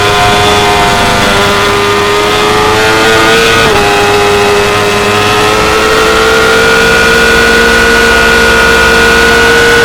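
2016 Yamaha R6's 600 cc inline-four engine running hard at high revs, a steady high pitch that dips briefly about four seconds in and then climbs slowly as the bike pulls.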